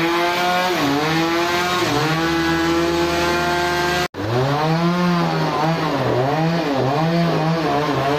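Chainsaw running at high speed, its pitch repeatedly sagging and recovering as the engine bogs under the cut and picks up again. The sound cuts out for an instant about four seconds in.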